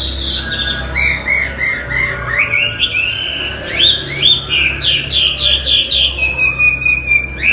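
Chinese hwamei singing a loud, varied song: a run of quick repeated slurred notes, then higher up-and-down notes, ending in a long held whistle near the end, over a low steady hum.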